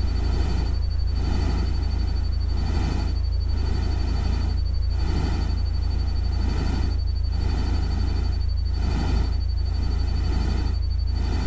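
Synthesized rain-like ambient noise: a steady deep rumble under a hiss that swells and fades about one and a half times a second, with a thin steady high tone running through it.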